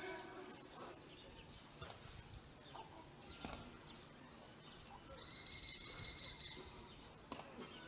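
Faint open-air ambience with birds calling. A high, steady call lasts about two seconds in the second half.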